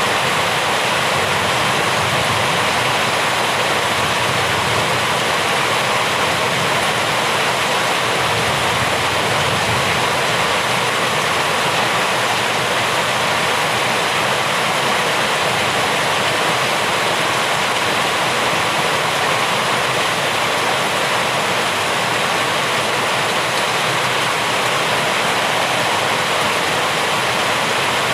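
Steady heavy rain, a dense continuous hiss that never changes in level.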